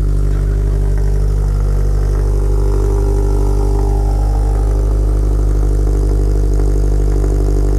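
Subaru STi's turbocharged flat-four boxer engine idling steadily on newly fitted Killer B equal-length headers, with only a little rumble left and a deeper note.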